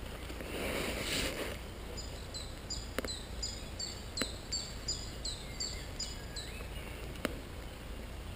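Leaves and undergrowth rustle as someone pushes through brush for the first second and a half. Then a small songbird sings a quick run of about a dozen repeated high notes, about three a second, over the quiet of the forest, with a few sharp clicks in between.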